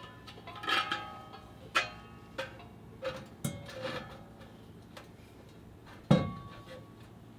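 Scattered metallic clinks and knocks of tools and exhaust parts being handled, some leaving a brief ring, with one louder clank about six seconds in.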